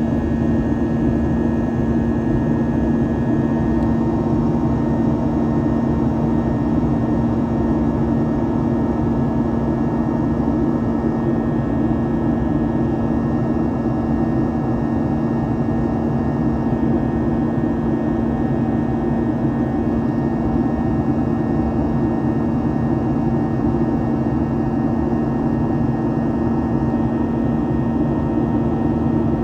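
Steady cabin drone of a Boeing 737-800 airliner in flight: the rush of its CFM56-7B engines and airflow, with a constant low hum and fainter higher tones over it.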